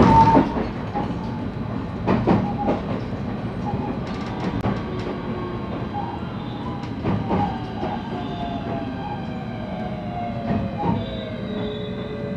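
Interior running sound of a JR West 223 series electric train's motor car: steady rumble with irregular knocks of the wheels over rail joints, the loudest at the very start. From about halfway through, the traction motor and inverter whine falls steadily in pitch as the train slows.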